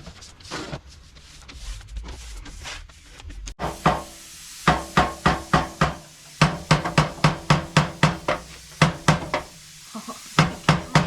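Rapid, evenly spaced hammer blows on the steel frame of a Honda C100, about three a second, with ringing metal, knocking a rusted reinforcement panel loose.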